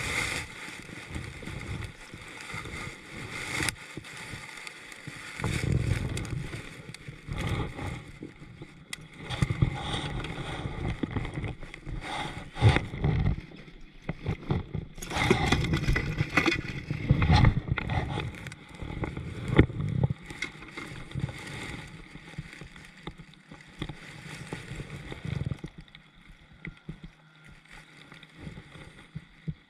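Water sloshing and gurgling against a kayak's hull, with irregular knocks and handling noises on the boat, busiest in the middle and quieter near the end.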